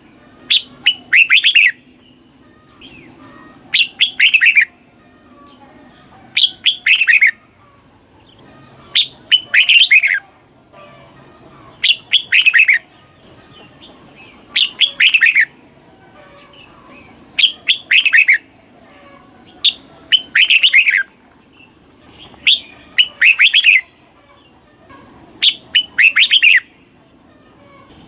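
Red-whiskered bulbul singing: short, loud phrases of several quick descending notes, each about a second long, repeated roughly every three seconds.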